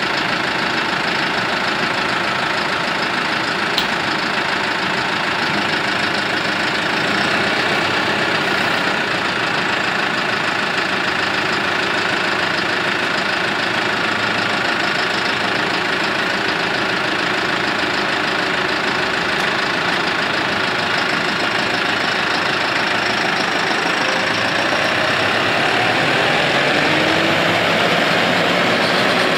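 New Holland T4.115 tractor's four-cylinder diesel engine running steadily, picking up slightly in pitch and loudness near the end.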